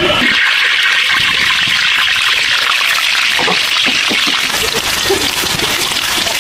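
Running water, a steady trickling hiss.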